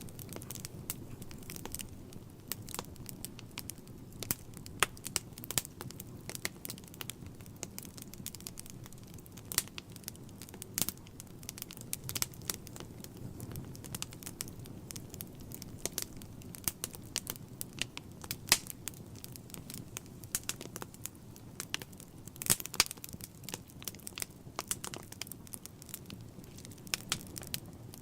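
Wood fire burning in a fireplace: a low steady rumble of flames with frequent irregular crackles and pops, a quick cluster of louder pops about three-quarters of the way through.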